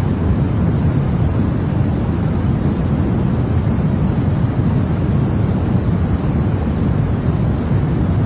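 Continuous white noise for baby sleep: a steady, deep hiss with most of its energy low, unchanging throughout.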